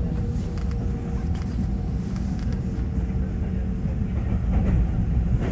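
Taiwan Railway EMU900 electric multiple unit running along the line, heard from inside the carriage: a steady low rumble of wheels on the rails with faint clicks, and a faint steady whine that fades out about four seconds in.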